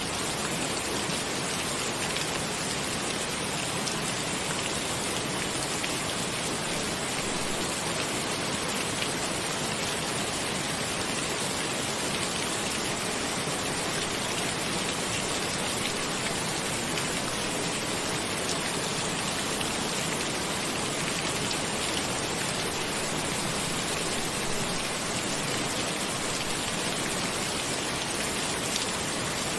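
Steady rain falling on a roof, an even hiss with faint scattered drop ticks.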